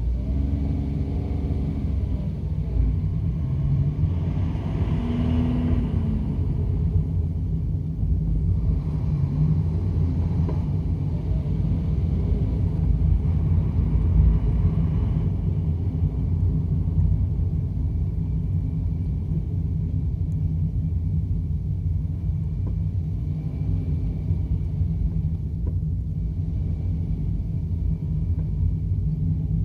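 Honda N-BOX kei car on the move, its three-cylinder engine and the road making a steady low rumble. The engine note rises and falls a few times as the revs change.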